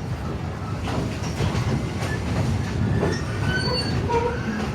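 East Broad Top narrow-gauge train rolling along the track: a steady rumble and clatter of wheels on rail, with faint high wheel squeals about three seconds in.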